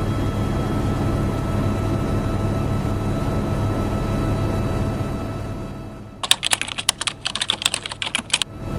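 A steady mechanical drone with a low hum fades out about two-thirds of the way in. It gives way to a quick run of computer-keyboard typing clicks lasting about two seconds.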